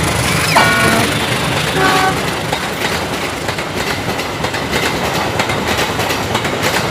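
Train running on rails with a steady clatter of wheels, and two short horn toots, one about half a second in and a briefer one near two seconds.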